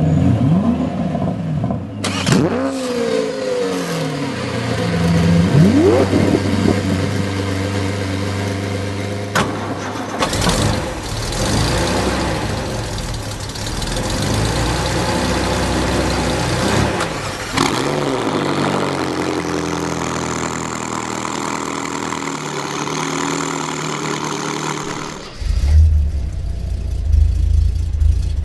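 Car engine revving: its pitch rises and falls in several quick blips, then it runs on with slower swells. About three seconds before the end the sound changes abruptly to a deep, uneven rumble.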